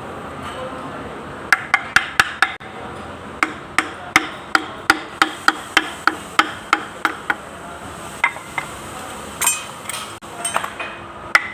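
Quick series of light hammer taps, about three to four a second, in two runs with a short pause between them, then a few scattered knocks and a brief scrape near the end.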